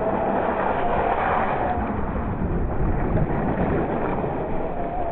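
Radio-controlled scale truck driving over dirt and rocks, its electric motor giving a steady whine over the noise of tyres and ground.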